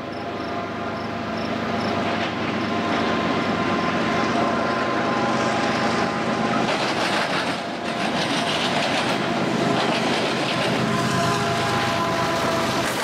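CSX diesel freight locomotive approaching and passing close by. Its engine rumble builds over the first couple of seconds and then holds steady, with steady tones riding over it.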